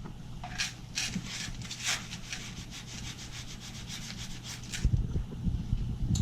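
Rapid scratchy rubbing or scrubbing strokes, about five a second, lasting roughly four seconds, followed by low knocks and handling sounds near the end.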